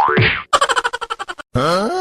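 Cartoon-style sound effects: a springy boing slide, then a fast run of clicks lasting about a second, then a short wobbling pitched sweep.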